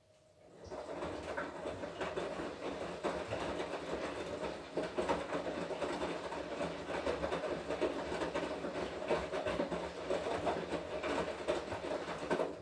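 Washing machine drum turning during a wash cycle, the laundry tumbling with many small knocks. It starts about half a second in and stops suddenly near the end, as the drum pauses between turns.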